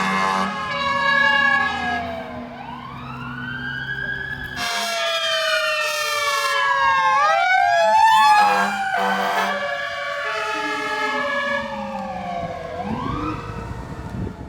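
Scania P370XT fire engine's warning sirens sounding together: several siren tones sweeping up and down and crossing over each other, with alternating two-tone horn notes in the first two seconds and a low drone underneath for the first few seconds. Near the end a slow rising wail starts up before the sound cuts off.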